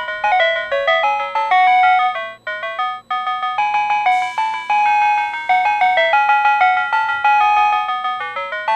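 PATLITE electronic signal-clear annunciator on a Tobu Railway station platform, playing a repeating melody of quick electronic chime notes that tells a one-man train's crew the starting signal has cleared. The loop breaks off briefly about two and a half seconds in and starts again.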